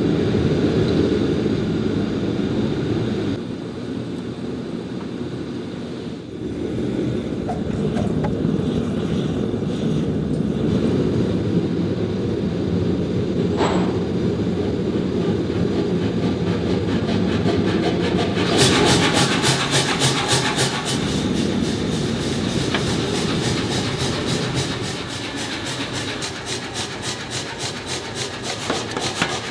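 Forge shop machinery: a steady mechanical roar, joined about two-thirds of the way in by fast, even hammering, typical of a mechanical power hammer squashing hot steel.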